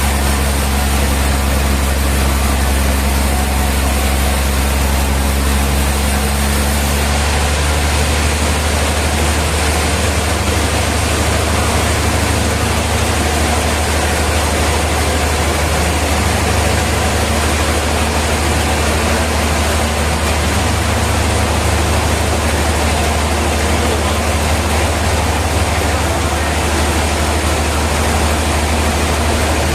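Heavy sawmill machinery running steadily: a deep engine hum with a wide hiss over it. The sound shifts about seven seconds in, where some of the higher hum drops away.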